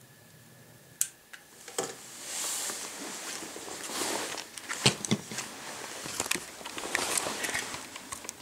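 A lighter clicking and plexiglass kindling being lit in a fireplace: a sharp click about a second in, then irregular clicks, crackling and a soft hiss as the flame takes.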